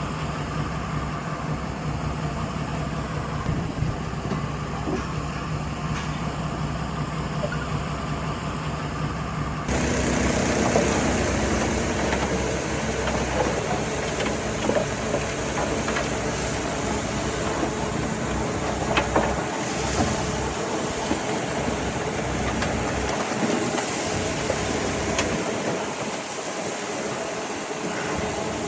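Heavy diesel earthmoving machinery running steadily. About ten seconds in the sound switches abruptly to a louder, rougher engine noise with scattered faint knocks.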